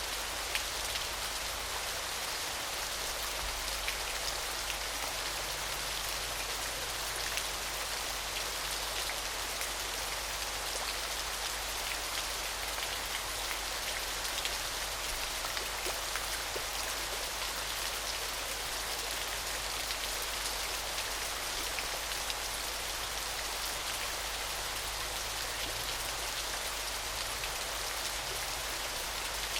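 Small, gentle waterfall: falling water splashing in a steady hiss, with many small drips and splashes throughout.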